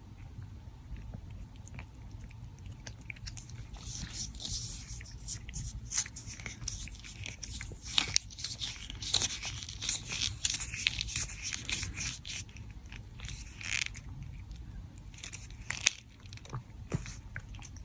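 A pet crunching and chewing a hard treat: a dense run of sharp crunches in the middle, with a few more bites near the end.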